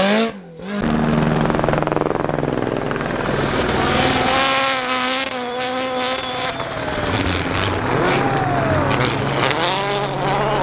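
Rally car engine at high revs, its pitch climbing and dropping with gear changes and lifts off the throttle. There is a short break in the sound just under a second in.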